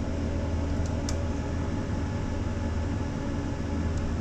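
Steady low mechanical hum in an aircraft cockpit on external power, at the start of an engine start, with one sharp click about a second in.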